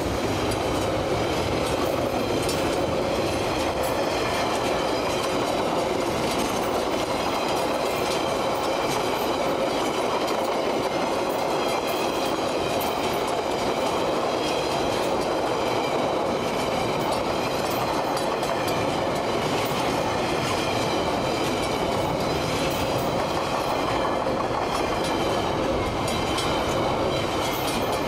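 Freight wagons of a passing train rolling by at close range: a steady rumble of steel wheels on the rails with clickety-clack over the rail joints and a faint high-pitched ringing.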